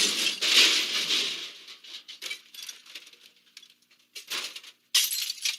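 Rustling and clattering with scattered small knocks and clicks, densest in the first two seconds and again briefly near the end.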